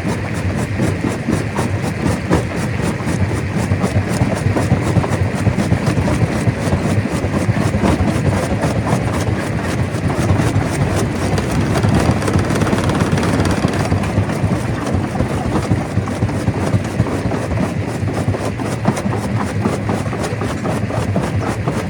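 Stone crusher machine running, with a steady, dense clatter of rock being broken.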